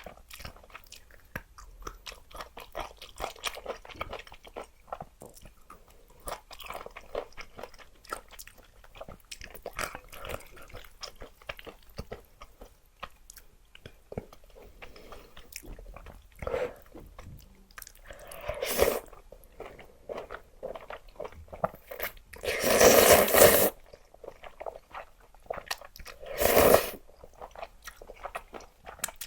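Close-up eating of spicy luosifen rice noodles: steady chewing with small crunches, broken by several louder slurps, the longest and loudest a little past the middle.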